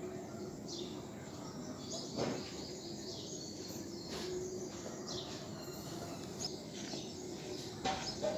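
Birds chirping in short repeated calls over steady background noise, with a brief knock about two seconds in.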